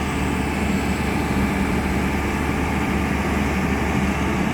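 Hyundai excavator's diesel engine running steadily with a deep, even drone.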